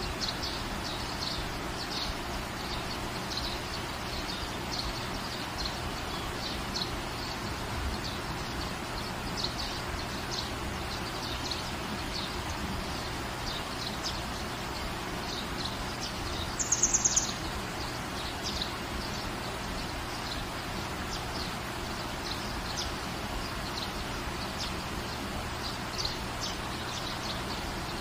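Steady rain falling in a garden, with small birds chirping over it again and again. A louder, high, rapid bird trill comes a little over halfway through.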